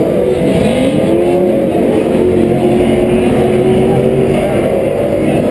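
Several PRO 4 off-road race trucks' engines running hard on the track. About half a second in, one engine's pitch drops sharply and then climbs back and holds as it lifts off and accelerates again.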